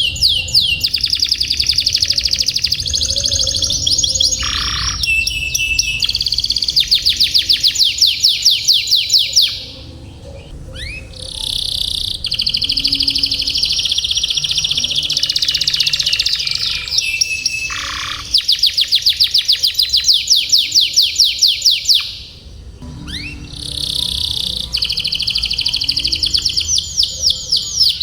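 Domestic canary singing long, rapid trills (rolls) of fast repeated high notes, run together in a continuous song that pauses briefly about a third of the way in and again near the end.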